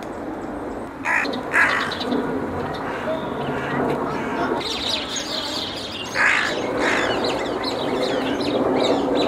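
Wild birds calling: pairs of harsh, caw-like calls about a second in and again around six seconds, with quick high chirping from about halfway, over a steady background murmur.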